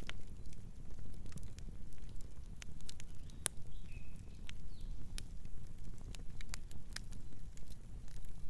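Wood fire burning, with irregular sharp crackles and pops over a steady low rumble of flames. A faint, short, high bird chirp comes about four seconds in.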